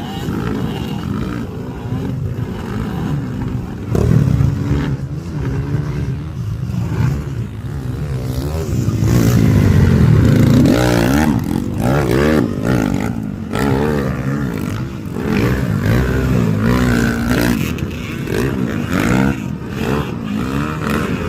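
Off-road motorcycle engines revving, their pitch repeatedly rising and falling, loudest about ten seconds in.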